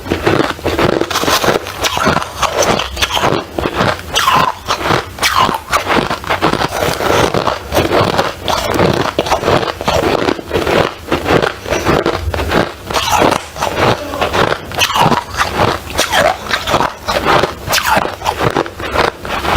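Ice being bitten and chewed close to the microphone: a steady stream of loud crunches and crackles.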